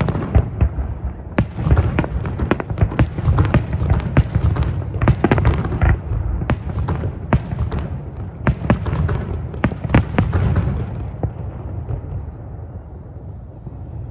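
Fireworks display: rapid overlapping bangs and crackles of aerial shells bursting over a continuous low rumble, thinning out and getting quieter about eleven seconds in.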